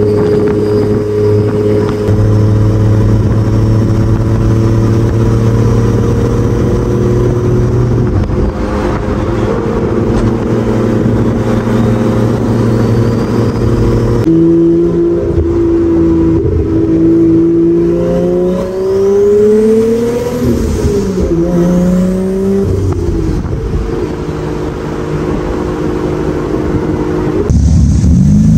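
Turbocharged 2JZ-GE inline-six in a swapped Nissan 300ZX, heard from inside the cabin on the road: a steady engine note at cruise, then after a cut the revs climb and fall back with a gear change. Near the end another car's engine runs close by.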